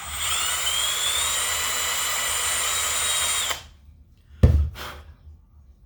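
Electric drill running for about three and a half seconds, boring into the aluminium fan flywheel of a Zenoah engine to take weight off its heavy side for balancing, its whine rising a little as it gets going, then stopping. About a second later come a sharp knock and a lighter second one.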